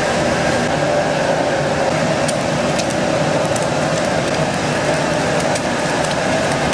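Steady, loud kitchen noise, with a few faint sharp clicks scattered through it.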